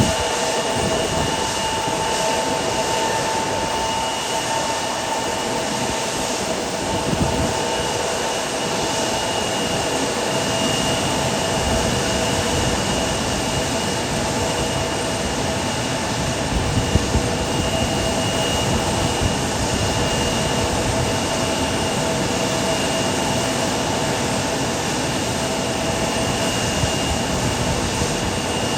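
Jet airliner engines running steadily: a continuous rush of noise with several steady whining tones held over it.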